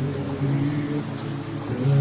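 Steady rain with scattered drops, laid over a slowed, reverb-heavy nasheed carrying long held low notes.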